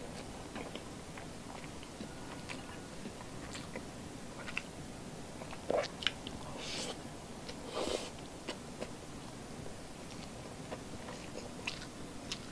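Close-miked chewing of soft rice and milkfish, with scattered wet mouth clicks and a few louder smacking sounds about six and eight seconds in.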